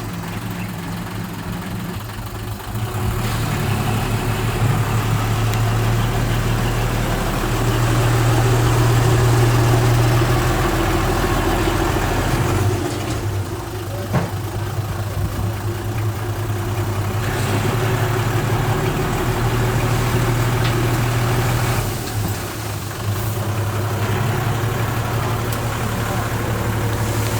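Heavy-equipment diesel engine running, with a steady low drone that swells louder from about three to twelve seconds in and again around eighteen to twenty-two seconds, easing between.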